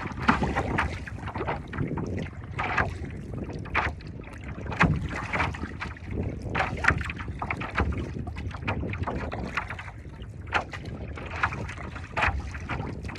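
Wind buffeting the microphone with a steady low rumble, while water splashes and slaps around a paddleboard on choppy sea in short irregular bursts, roughly one a second.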